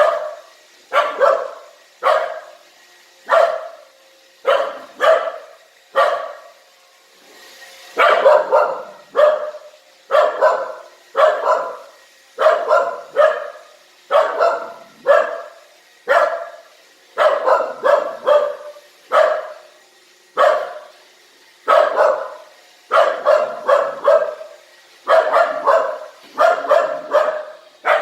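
Dog barking repeatedly, roughly one bark a second, often in quick pairs or threes, wary of a robot vacuum.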